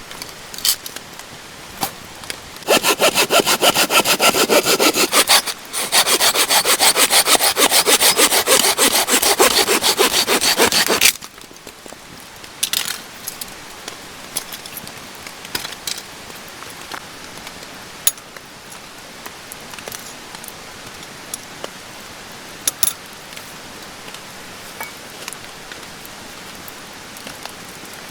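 A saw cutting through wood in two spells of quick, even strokes, a few seconds each, with a short pause between. Then scattered small clicks and knocks of wood being handled.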